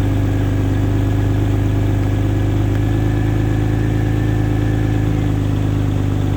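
Porsche 911 Turbo flat-six engine running at a steady fast idle during its cold-start warm-up cycle.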